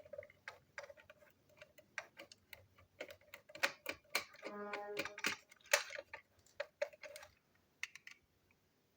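Hard plastic toy train parts and track pieces clicking and clacking as they are handled and fitted together, in irregular quick taps that bunch up about halfway through. A short steady tone is heard about halfway through.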